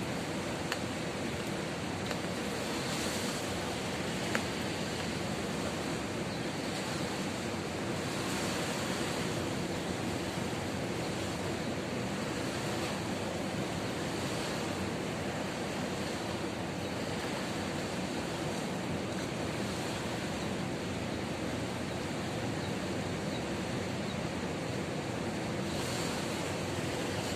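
Ocean surf breaking steadily on a beach, a continuous wash of waves that swells gently every few seconds.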